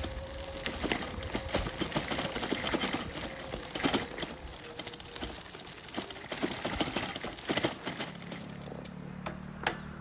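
Rapid, irregular clicks and crackles, with a thin steady tone in the first half. A low, steady engine-like hum comes in near the end.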